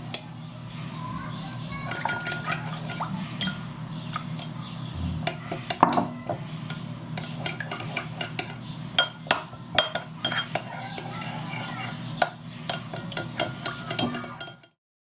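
Metal cutlery clinking and scraping against dishes, a run of irregular sharp clinks over a steady low hum, cutting off suddenly near the end.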